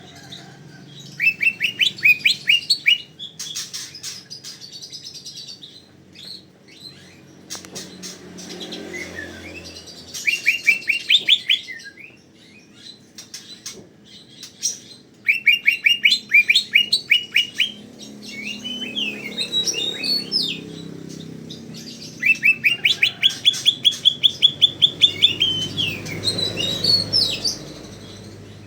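Green leafbird (cucak ijo) singing in full voice. It gives bursts of a dozen or so fast, evenly repeated rising notes, and between them varied warbles and chirps.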